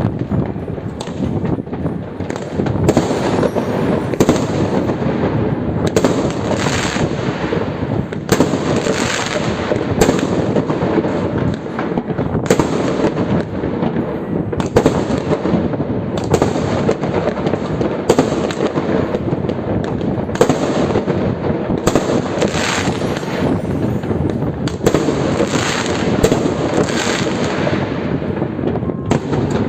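Many fireworks going off at once, a dense, unbroken run of overlapping bangs and crackles.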